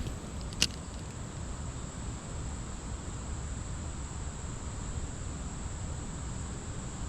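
Steady high-pitched insect drone over a low outdoor rumble, with one sharp click about half a second in.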